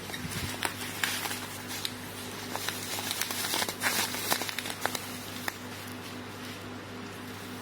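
Plastic premade pouch being handled, crinkling and crackling in bursts for the first few seconds, over the steady electrical hum of the packaging machine.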